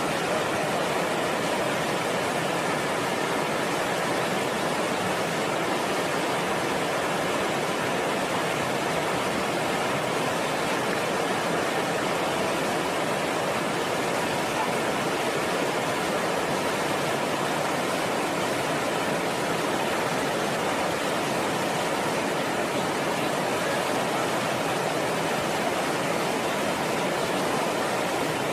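Floodwater of a swollen river rushing steadily, an even unbroken wash of water noise.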